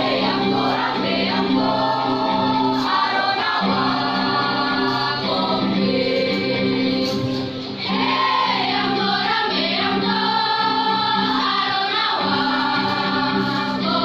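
A choir singing a song over steady sustained accompaniment.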